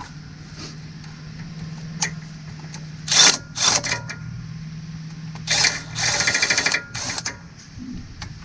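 Socket tools clatter a few times on the engine, then about six seconds in a ratchet fires off a fast run of clicks lasting just under a second as it turns a timing cover bolt. A steady low hum runs underneath until then.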